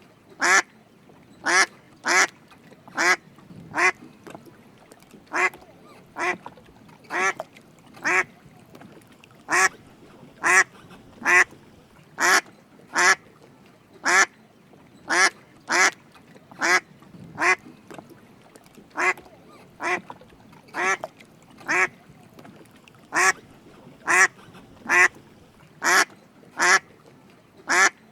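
Drake mallard duck calling with short quacks, singly or in quick pairs, about one a second.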